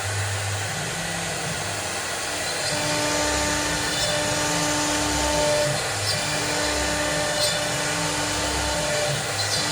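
CNC cutting machine running: a steady noise of cutting with a pitched motor whine that stops and starts again every second or so as the machine moves.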